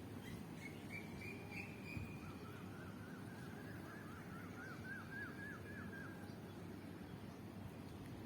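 Bird calls: a short high trill, then a run of quick, evenly repeated chirps lasting a few seconds, over a steady low background noise.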